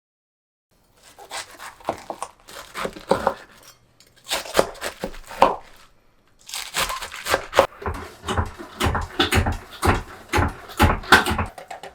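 Paper crinkling and tearing in quick crackly bursts, with short pauses about four and six seconds in.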